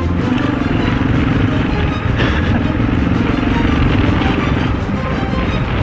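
Husaberg FE 650 dirt bike's single-cylinder four-stroke engine running steadily under way, its firing pulses a fast even thrum.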